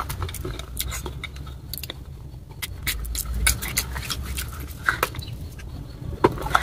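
Chewing and crunching of baked clay pieces coated in wet red clay paste: irregular sharp cracks and wet mouth clicks, sparse in the middle and bunching into louder crunches near the end.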